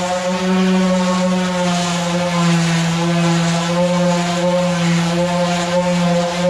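Electric power tool motor running steadily with a strong hum, its pitch wavering slightly a few times as if under changing load.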